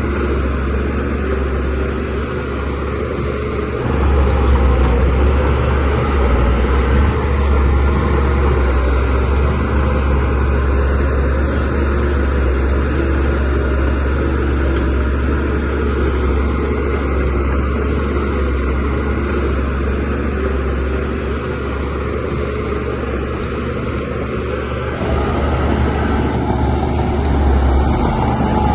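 Shantui DH17C3Pro bulldozer's diesel engine running as it works, a steady low drone that grows louder about four seconds in and again near the end.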